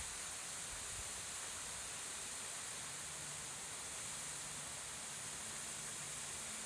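Faint, steady rush of a waterfall, an even hiss of falling water with no change throughout.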